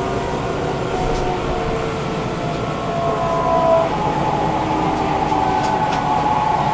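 Sendai Subway Namboku Line 1000N series train running, heard from inside the car: a steady rumble of wheels on track with several motor tones humming over it, and one tone rising slightly midway. The air conditioning is running.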